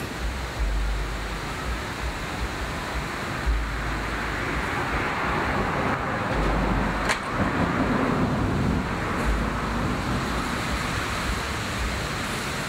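Steady street traffic noise, with low rumbles coming and going and a single sharp click about seven seconds in.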